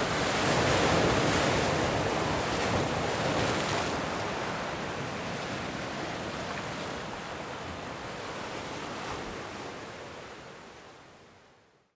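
Ocean surf: the rush of a breaking wave, loudest in the first couple of seconds, slowly ebbing away and fading out just before the end.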